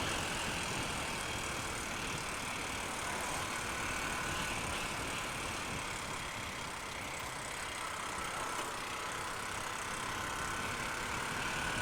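Honda Unicorn single-cylinder motorcycle cruising along a road, its engine running steadily under a constant rush of wind and road noise, with a faint whine that rises slightly near the end.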